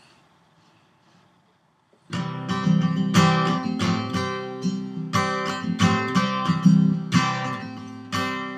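Faint room noise, then about two seconds in a strummed string instrument starts playing chords in a steady rhythm, the instrumental intro of a song before the singing comes in.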